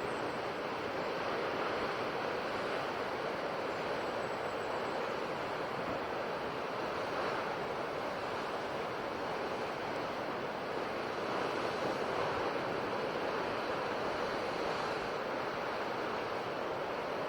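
Ocean waves breaking on a shore in a continuous, steady wash of surf that swells gently now and then.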